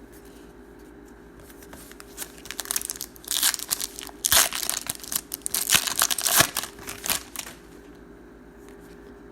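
Plastic trading-card pack wrapper being torn open and crinkled in the hands. The rustling starts about two seconds in, is loudest in the middle, and dies away a couple of seconds before the end.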